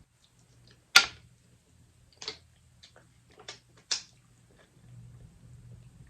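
Crab shells cracking and snapping as they are broken open by hand while eating: one loud sharp crack about a second in, then three smaller snaps.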